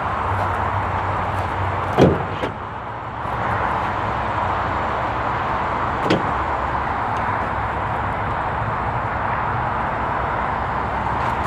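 A 2018 Ford F150 King Ranch's door shut with a solid slam about two seconds in, then a lighter clunk about four seconds later, over a steady background hiss.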